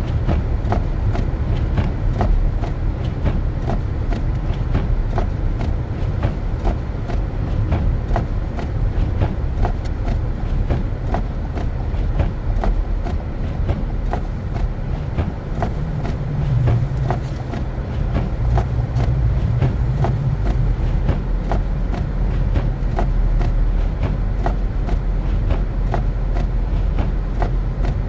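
Car driving on snowy streets: a steady low rumble of tyres and engine, with a regular light ticking throughout.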